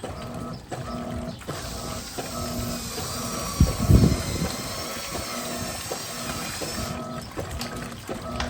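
Electrolux LTP15 top-loading washing machine agitating: its motor hums in short repeated pulses, about one and a half a second, as the agitator swings back and forth through the load, with water sloshing. A loud thump comes about four seconds in.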